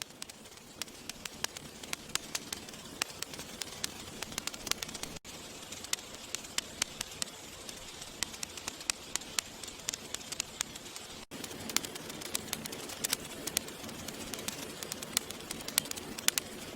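Campfire crackling steadily, with frequent sharp pops and snaps over a soft hiss. The sound cuts out for an instant twice.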